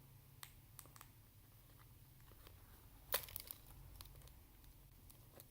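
Quiet room with a few faint clicks and a short crackle about three seconds in.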